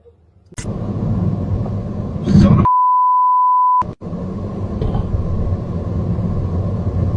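A steady one-second censor bleep, a single pure beep near 1 kHz, cutting in over a loud low rumbling noise about two and a half seconds in; the rumbling noise runs on after it.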